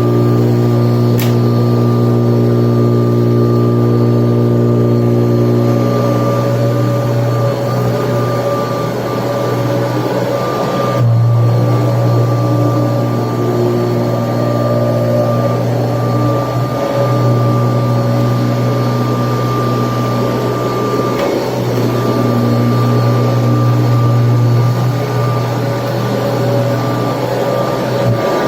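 Kirby Tradition upright vacuum cleaner running while vacuuming: a loud, steady motor hum with a constant higher whine, its note wavering briefly a few times as the load changes.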